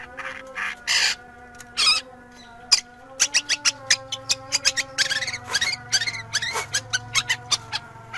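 Long-tailed shrike (cendet) singing: harsh, scratchy calls, a few at first, then from about three seconds in a dense, fast run of chattering and mimicked notes.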